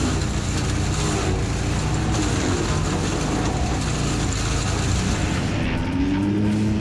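Wood chipper's engine running steadily, its hum laid over a dense noisy rush from the machine. Near the end the sound shifts and a higher engine note comes in, rising slightly.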